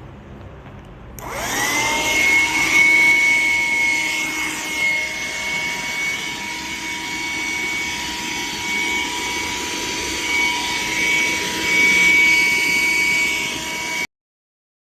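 PowerPac PPV602 cordless 9.6 V wet-and-dry handheld vacuum cleaner switched on about a second in, its motor spinning up to a steady high whine with a rushing of air, running until it cuts off suddenly near the end.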